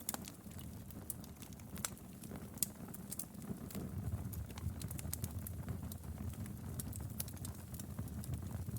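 Wood fire crackling in a fireplace: a steady low rumble of flames under scattered sharp pops and snaps.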